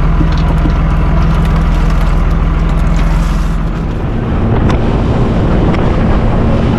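Boat engine running, with wind buffeting the microphone; the engine note changes about four seconds in.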